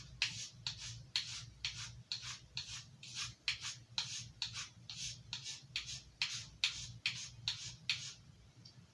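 Knife blade stroked across a broken piece of Arkansas whetstone while being sharpened: a steady run of short scraping strokes, about two or three a second, which stops about eight seconds in.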